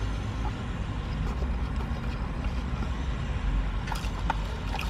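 Steady low rumble of vehicle noise, with a few faint clicks about four seconds in and near the end.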